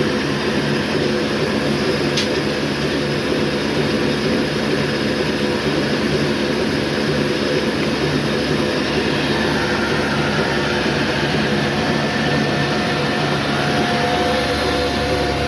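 Old black Ruston Hornsby-type diesel oil engine running steadily under load, driving a flour mill, with the mill's grinding noise mixed in.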